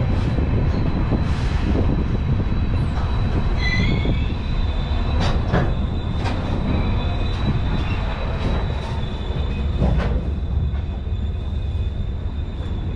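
Passenger train's wheels rumbling along the rails as it pulls out of a station, heard from the coach doorway. Irregular clacks of the wheels over rail joints come through, with a brief high wheel squeal about four seconds in.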